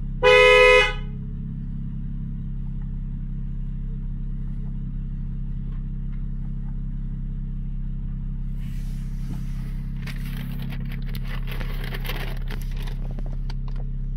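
Honda J30A 3.0-litre V6 idling steadily. A short, loud car horn beep just after the start is the loudest sound. A stretch of crackling hiss comes through in the second half.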